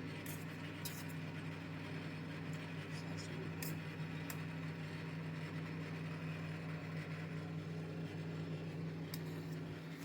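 A steady low hum with a few faint, short clicks and taps.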